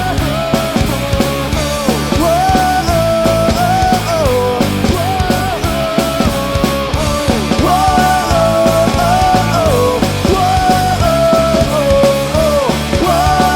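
Punk rock band playing an instrumental passage: drums and bass under a melodic lead line that slides between held notes.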